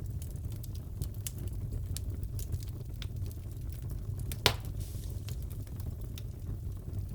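Wood fire crackling in a fireplace: a steady low rumble with many small scattered crackles and one louder pop about four and a half seconds in.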